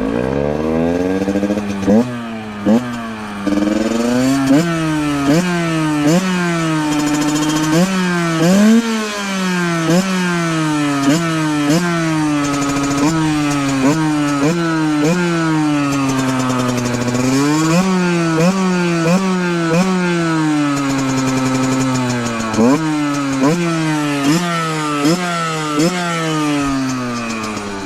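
Valenti 50 motard's 50cc two-stroke Minarelli AM6 engine, breathing through its stock Scalvini exhaust, revved on the spot. The throttle is blipped over and over, the pitch climbing and dropping back each time, with a few longer holds at high revs.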